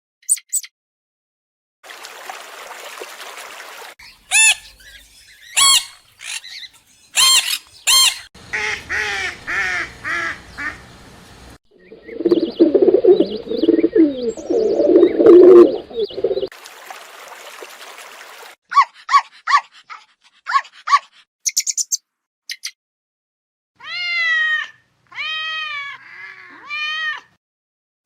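A string of separate short animal-call clips with silent gaps between them: sharp chirping calls, then louder, deeper calls in the middle, then quick high chirps, and near the end four pitched calls that rise and fall.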